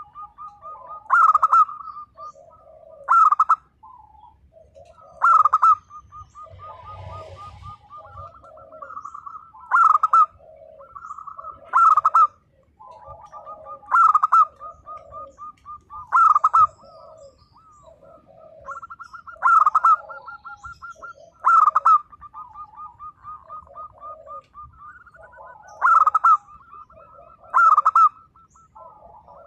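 Zebra dove (perkutut) singing its cooing song: a loud note about every two seconds, with quieter rapid trilled and rattling notes between.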